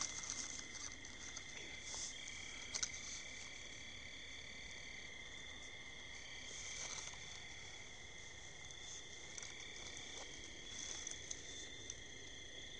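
Night insect chorus of crickets: steady high trilling at several pitches, with a few faint brief rustles.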